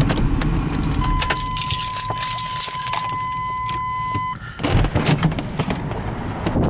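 A car's engine rumble fades out about a second in, then a steady electronic warning tone from the car sounds for about three seconds while keys jangle. The tone cuts off suddenly, as when the key is pulled from the ignition, and is followed by a thump and rustling.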